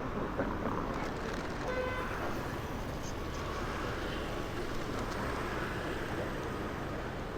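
Busy street traffic, a steady wash of motorbike and car noise, with a short horn toot about two seconds in.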